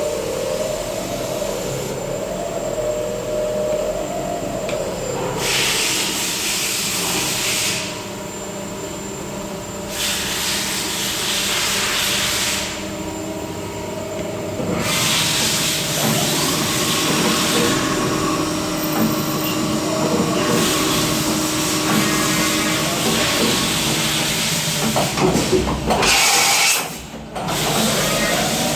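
CNC milling machine running a cycle: the spindle's tone rises and falls in repeated arcs for the first few seconds, then several stretches of loud hiss start and stop every few seconds over the machine's steady hum.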